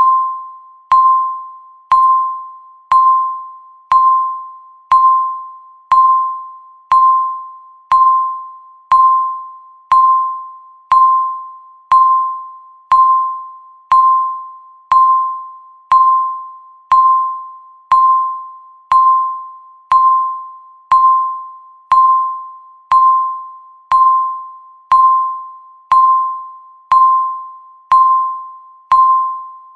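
Countdown timer's electronic tick: one short ringing tone struck once a second, each fading out before the next, in an even, unbroken rhythm.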